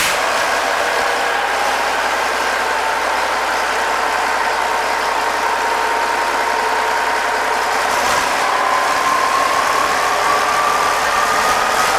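Yanmar 6LAH-ST six-cylinder turbocharged marine diesel running steadily at idle, shortly after starting. About two-thirds of the way in, a high whine starts to climb steadily in pitch.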